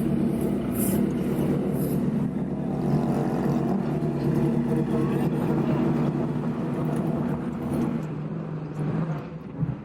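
An engine running steadily at an even speed, dropping off in level near the end.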